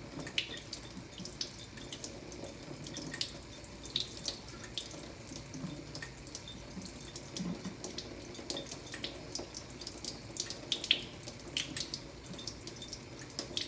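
Tap water running steadily into a sink over a coticule hone, with frequent irregular splashes and drips.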